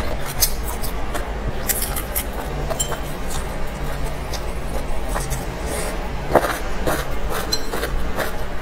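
Close-up eating sounds: chewing and wet mouth clicks as steamed dumplings and a pickled green chili are eaten, with one sharper click about three-quarters of the way through. A steady low hum runs underneath.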